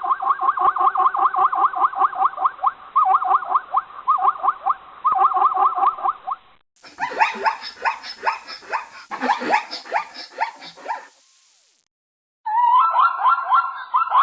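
Animal calls from two separate recordings. First, a fast run of short, repeated pitched calls, several a second, for about six seconds. After a brief break, a different recording of quick, choppy calls runs until about eleven seconds in, then stops. A third recording of calls begins near the end.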